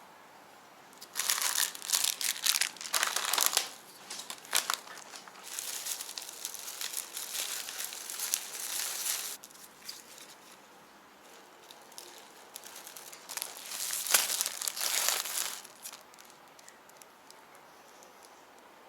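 Crinkly wrapping being handled and crumpled in three spells, each a few seconds long.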